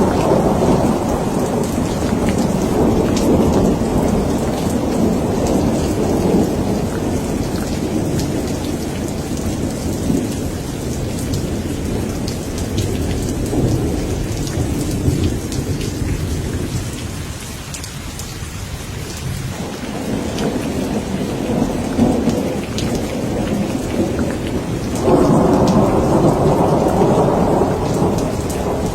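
Steady rain with rolling thunder. The low rumble swells and fades, dips about two-thirds of the way through, then builds to a loud peal near the end.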